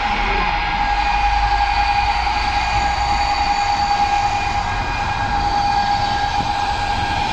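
Freight train approaching on the rails: a steady high-pitched tone held without a break over a low rumble.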